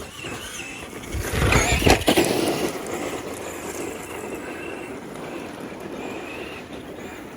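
Electric motor of a Tamiya King Blackfoot RC monster truck whining, its pitch rising and falling with the throttle as it is driven round the track, with a louder rush of noise about a second and a half in.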